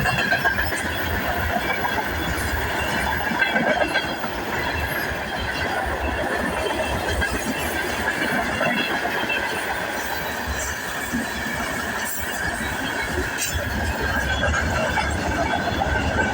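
A train running along the rails with a continuous rumble, and a steady high squeal from the wheels held throughout.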